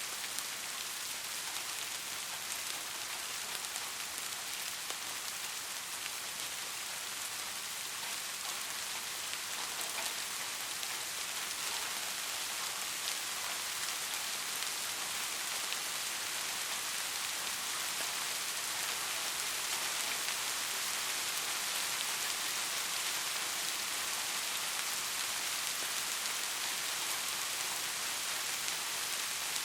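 Steady rain falling and pattering on a surface, an even hiss with fine drop ticks that swells slightly in the second half.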